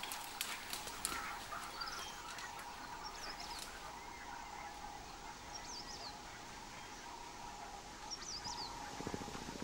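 Faint open-air ambience with a few short, high-pitched bird chirps, about four, spread through.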